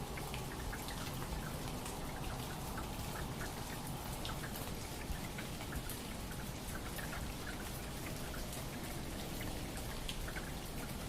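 Steady patter of water drops like rain, many small ticks over a constant hiss.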